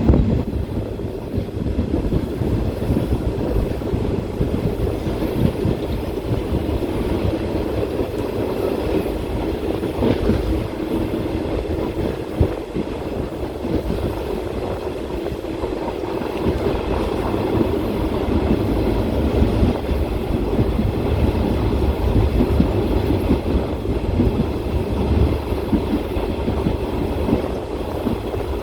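Passenger train running along the track, a steady rumble with the clatter of wheels on the rails.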